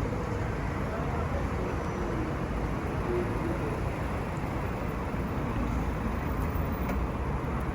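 Steady city street ambience, mostly the noise of road traffic, at an even level with no single event standing out.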